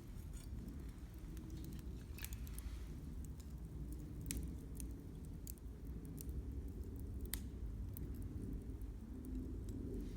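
Wood campfire crackling, with irregular sharp pops and snaps from the burning firewood over a steady low rumble.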